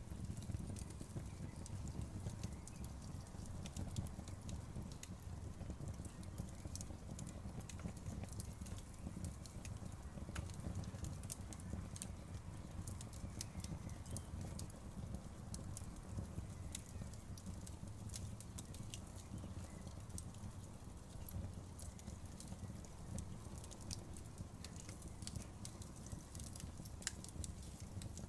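Campfire burning: irregular sharp crackles and pops from the burning wood over a steady low noise from the fire.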